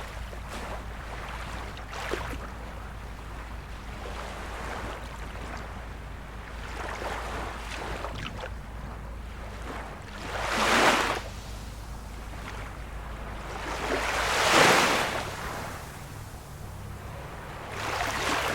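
Small waves of a calm sea lapping and washing in, with three louder swelling washes about ten, fourteen and eighteen seconds in, over a low wind rumble on the microphone.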